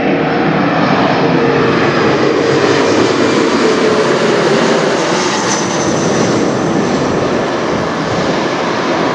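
Jet airliner flying low overhead, a loud, steady engine roar with a faint whine that drops a little in pitch over the first few seconds.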